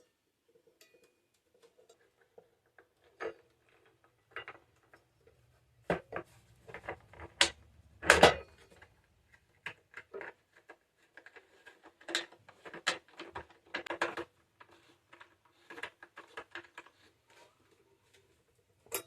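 Parts of a camera bird feeder and its mounting bracket being handled and fitted together: irregular clicks, taps and knocks, the loudest about eight seconds in.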